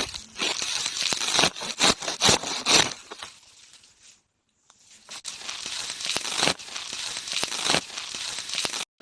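Rustling, crinkling handling noise with many sharp clicks, dropping out for about a second in the middle before starting again.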